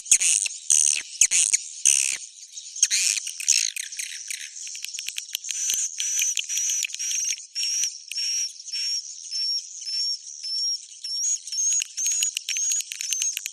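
Swiftlet roosting call, the 'suara inap' lure sound played in swiftlet houses: high, rapid chirping twitters. A dense run of chirps in the first two seconds settles into short chirps repeating about twice a second, each with a thin whistled note.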